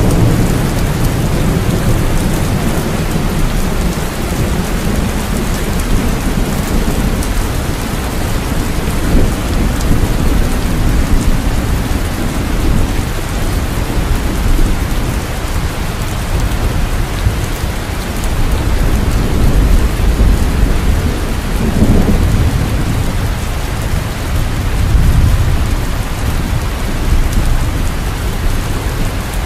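Steady heavy rain with low rolling thunder rumbling underneath, swelling louder about two-thirds of the way through and again near the end.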